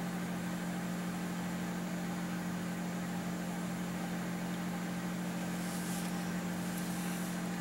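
Steady low hum from a running machine, unchanging in pitch and level, with two brief soft hisses near the end.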